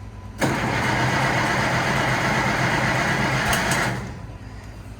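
Cold gasoline tractor engine cranking on its starter for about three and a half seconds without catching, over a steady low engine hum; the owner wonders whether he has flooded it with the choke.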